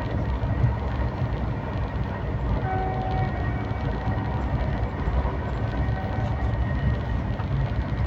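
Train running along the track, a steady low rumble with no break or change.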